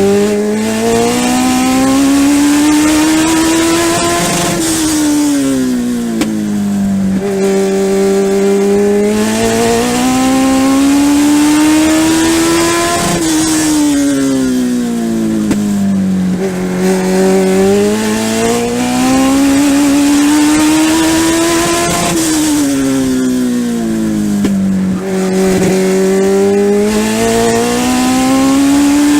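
Legend race car's Yamaha motorcycle-derived engine heard from onboard, lapping a short oval. Its revs climb steadily down each straight, drop off into the turn and hold low through it, then climb again. The cycle repeats about every nine seconds, three times.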